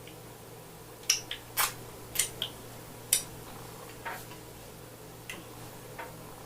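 Eating sounds from a close microphone: about nine short, sharp, wet clicks and smacks at an uneven pace, the loudest in the first half, as soft fufu and slimy okra soup are eaten.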